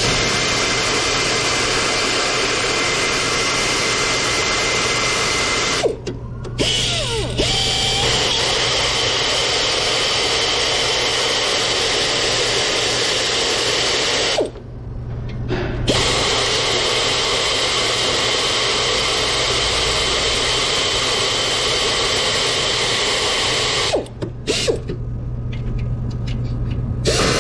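A power tool running steadily in long stretches, stopping briefly about six, fourteen and twenty-four seconds in.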